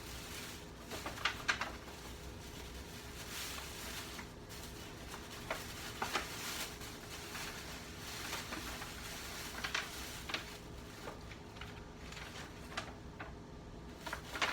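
Handling noises: scattered light clicks and rustles, a few at a time, over a faint steady hum.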